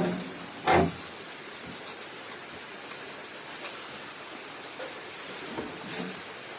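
Steady rain hiss, with a single loud thump just under a second in and a fainter knock near the end.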